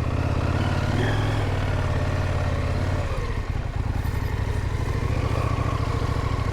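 KTM adventure motorcycle engine running at low, steady speed, opened up a little about a second in and eased off about three seconds in.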